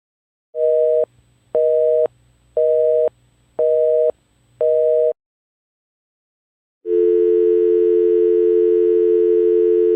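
Telephone busy signal: five dual-tone beeps at an even pace of about one a second, half a second on and half a second off. After a short pause, a steady, unbroken telephone dial tone starts about seven seconds in.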